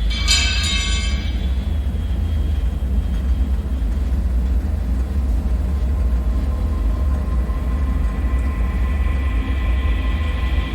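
Dark bunker ambience: a steady deep rumbling drone, with a brief metallic ring at the very start that fades over about a second and a half, and faint high whining tones coming in about halfway through.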